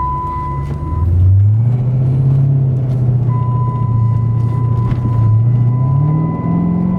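Chrysler 300 SRT8's 6.1-litre Hemi V8 with a Flowmaster exhaust accelerating, heard from the cabin. Its note climbs about a second in, holds, and climbs again near the end. A steady high seatbelt warning tone sounds over it, breaking off for about two seconds in the first half.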